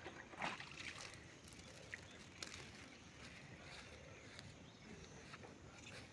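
Faint sloshing of water with a few soft knocks, as wet laundry is handled in a basin of rinse water.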